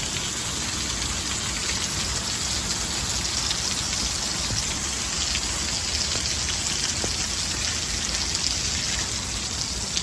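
Heavy thunderstorm rain pouring steadily: a dense, even hiss flecked with fine ticks of drops.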